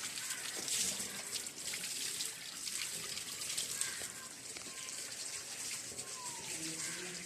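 Water flowing over a check dam: a steady rushing hiss.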